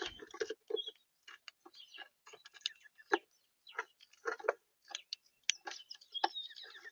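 Irregular tapping, clicking and scratching of animals feeding at a bird feeder, several sharp taps a second with scrabbling noise between them.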